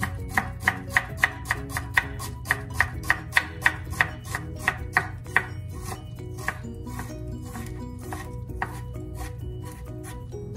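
Knife chopping on a cutting board in quick, even strokes, about three a second. The strokes are loudest for the first five seconds and lighter after that.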